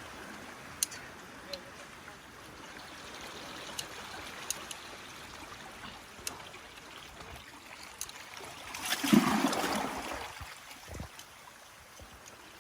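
Seawater washing and trickling among lava rocks, with a few small sharp clicks scattered through, and a louder surge of water about nine seconds in.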